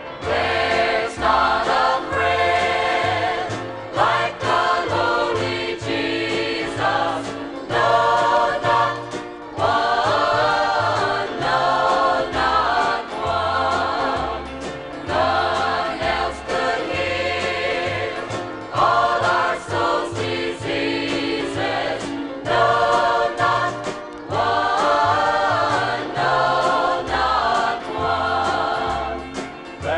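A choir singing a gospel song with instrumental backing and a steady bass line.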